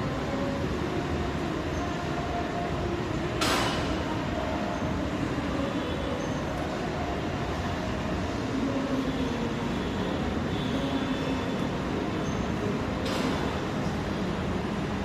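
Steady rain noise, with two sharp knocks about ten seconds apart, the first the louder.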